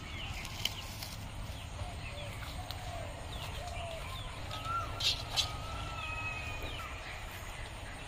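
Birds calling with thin whistled notes, some sliding in pitch, over a steady low rumble. Two sharp clicks come about five seconds in.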